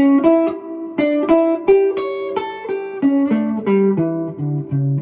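Guitar playing a single-note blues lick that mixes the minor and major pentatonic scales, moving between the minor and major third. The notes are plucked one at a time, about three a second, and the line drops to lower notes near the end.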